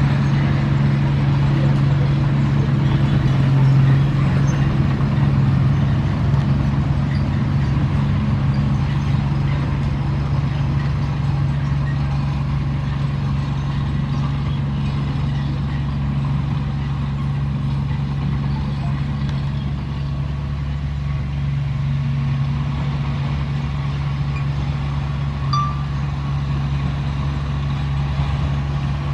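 Komatsu D31P crawler bulldozer's diesel engine running steadily under work.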